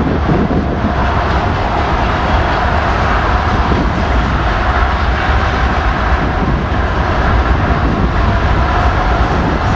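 A train rolling past, a steady loud rumble of wheels on rail with no horn.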